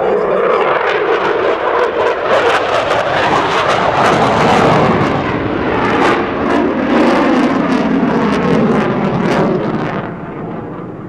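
Eurofighter Typhoon's two Eurojet EJ200 turbofans passing loudly, a rough jet noise full of crackle that falls away about ten seconds in.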